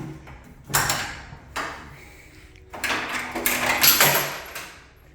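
Drop-down bed gates of a 1994 Subaru Sambar kei truck being unlatched and folded down: a sharp clunk under a second in, another a second later, then a longer run of clanks and rattling, loudest about four seconds in.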